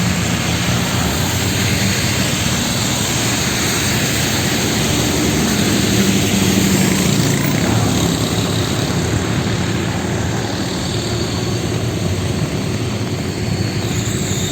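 Street traffic in the rain: vehicle engines running and passing, over a steady hiss of rain and wet tyres on the road.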